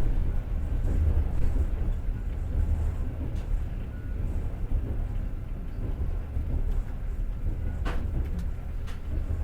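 Passenger train wheels rumbling steadily on the rails, heard from inside the carriage, with a sharp click about eight seconds in and a fainter one just after.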